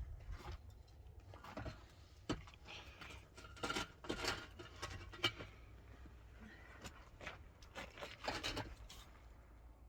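Irregular scraping and rubbing with a few sharp knocks scattered through it.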